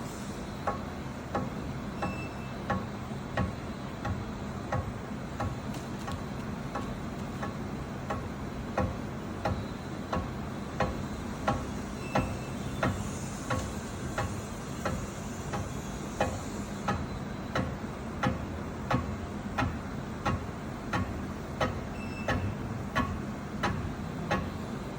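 A machine tool cutting a bearing-lock groove into an engine main bearing cap: a steady motor hum with a sharp, regular tick about three times every two seconds.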